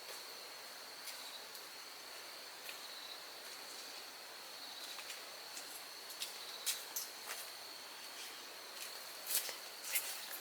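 Insects trilling as one steady, high-pitched note, with a few sharp clicks and knocks in the second half.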